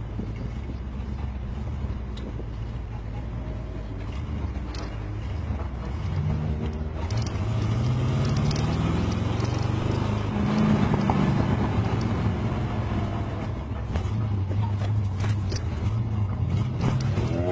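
Big-block Chevy 454 V8 in a Toyota pickup, heard from inside the cab, pulling hard: the engine note climbs in pitch about five seconds in and gets louder, then holds and climbs again near the end.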